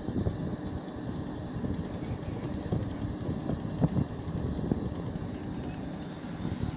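A boat's engine running steadily under wind and water noise, with irregular dull knocks scattered through.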